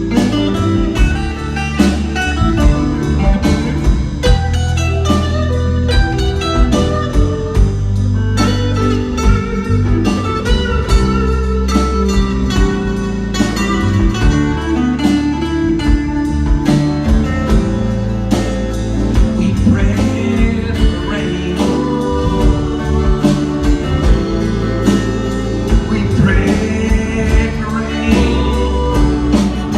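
Rock band playing live, in an instrumental break: electric guitar lead lines over bass and a steady drum beat.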